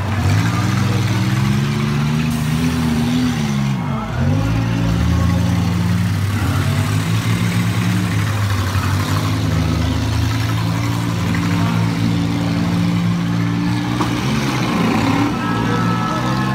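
Several front-wheel-drive demolition derby cars' engines revving hard and dropping off again and again, loud and continuous, as the cars spin and ram in the mud.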